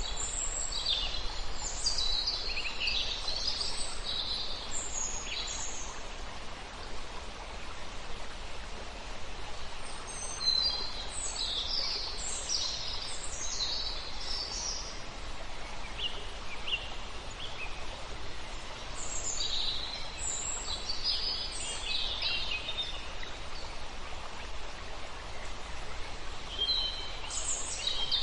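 Several songbirds singing in bouts of a few seconds, high chirps and trills, over the steady rush of a river.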